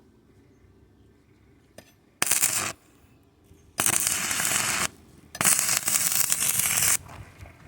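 Gas torch flame hissing in three bursts, each switched on and off sharply, the second and third about a second or more long, as the flame is played on glass wool that does not catch fire.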